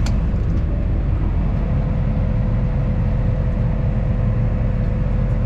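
Tractor engine running steadily, heard from inside the cab, with a thin steady whine over the rumble. A single click sounds right at the start.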